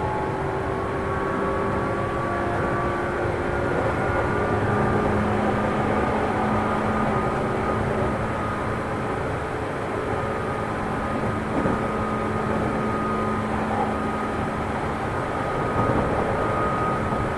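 JR 205-series electric train heard from inside a motor car with external-fan traction motors, running at speed between stations. A steady rumble of wheels on rail carries several whining motor and gear tones that shift slightly in pitch, with a couple of light knocks from track joints.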